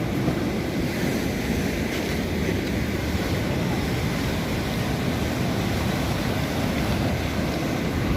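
Sea waves washing onto the shore in a steady surf, with wind rumbling on the microphone.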